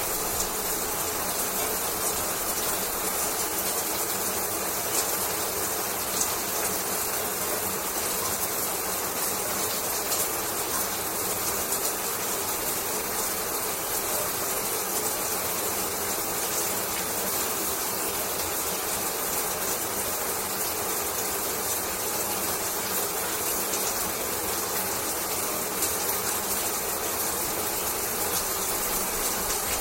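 Shower running: a steady spray of water with a fine crackle of drops hitting.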